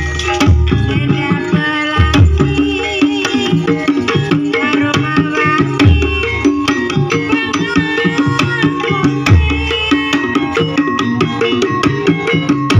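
Javanese gamelan music accompanying an ebeg dance, played live. Kendang hand drums strike deep, regular beats under a busy, ringing melody from metal percussion.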